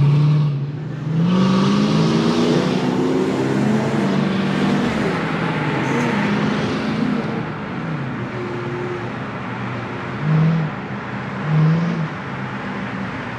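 Car engine accelerating with rising pitch, then running more steadily, with two short blips of revs near the end.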